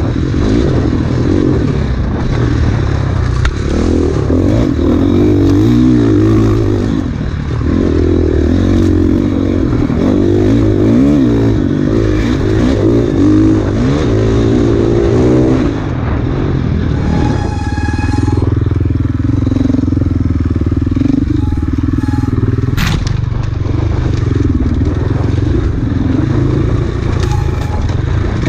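Enduro dirt bike engine revving hard up and down as it is ridden through a trail section, with clatter from the bike over rough ground. After about 16 seconds the engine holds a steadier note, and a brief high squeal comes through soon after.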